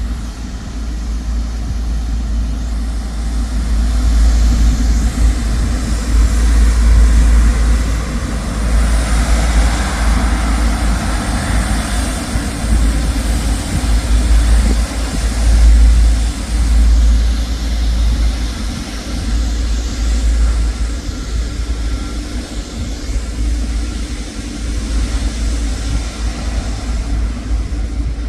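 Jet airliner passing low overhead on its landing approach: a continuous engine roar that swells through the middle and then eases, over a heavy low rumble.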